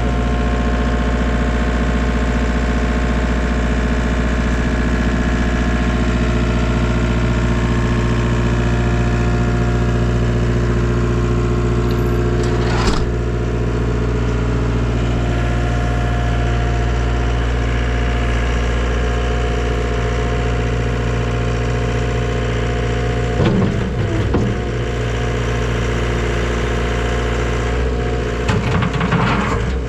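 Takeuchi TL250 tracked skid steer's diesel engine running at a steady speed. There is one sharp knock about halfway through and short bursts of clattering near the end.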